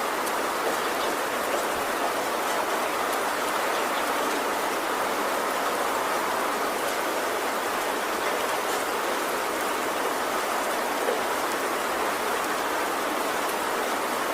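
Heavy rain falling steadily in an even hiss, with scattered faint ticks of individual drops.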